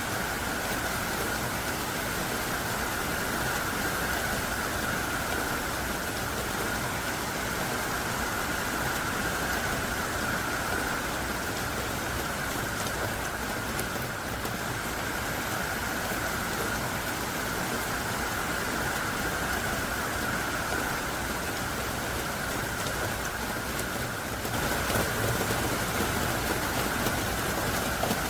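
Heavy rain pouring down steadily in a dense, even hiss. About 24 seconds in it grows louder, with a low rumble added underneath.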